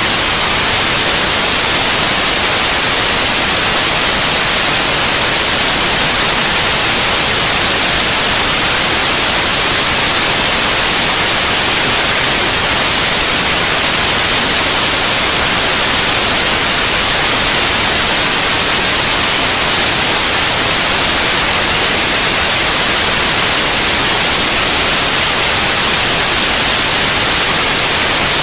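Steady, loud white noise: an even hiss, strongest in the high frequencies, that does not change.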